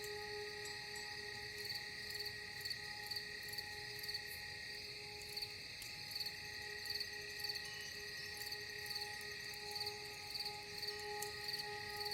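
Crickets chirping in a steady, regular rhythm over a soft ambient music drone of held tones.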